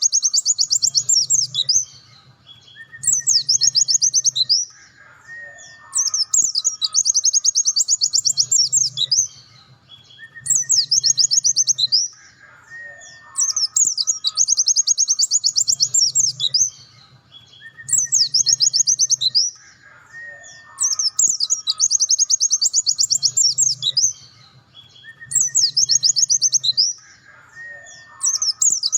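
A pleci dakun white-eye sings its fast, high trilling 'nembak' song. The phrases last one to three seconds each and come again and again with short pauses between them, with fainter short whistles in the gaps.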